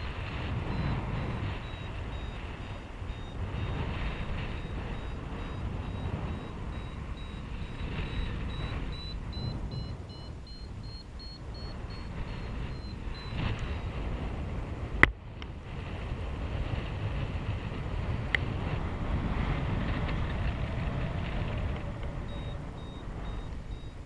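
Wind rushing over the microphone in paragliding flight, with a variometer's high beeping tone stepping up and down in pitch as the climb rate changes. A single sharp click comes about fifteen seconds in.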